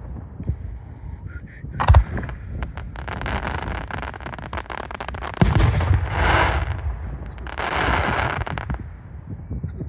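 Fireworks display: aerial shells bursting with sharp bangs, about two seconds in and a louder one a little past halfway, with fast crackling in between. Two longer hissing, crackling spells follow the second bang.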